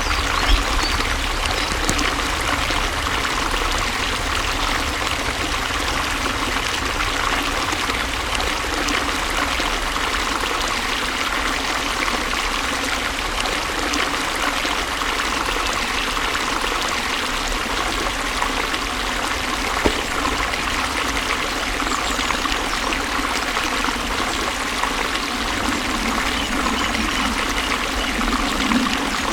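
Water flowing and trickling steadily, like a small stream running over stones.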